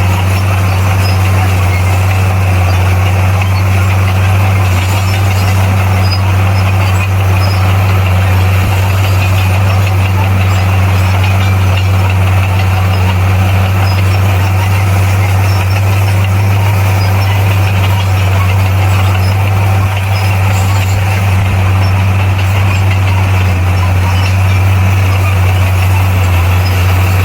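Bulldozer's diesel engine running at a steady, unchanging pace, a constant low drone.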